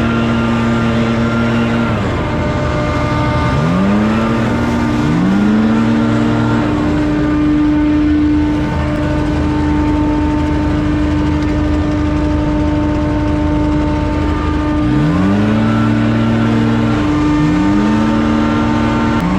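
Two small engines of commercial lawn equipment running at high speed. One holds a steady pitch while the other briefly drops in speed and climbs back, a few seconds in and twice more near the end, as if throttling or bogging under load.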